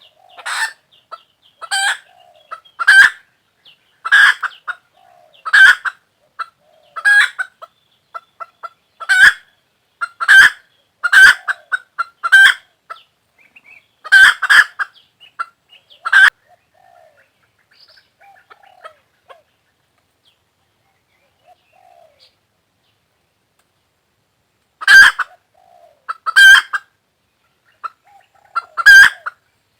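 Hen clucking loudly in short, sharp repeated calls about once a second, then softer low clucks for several seconds before three more loud calls near the end.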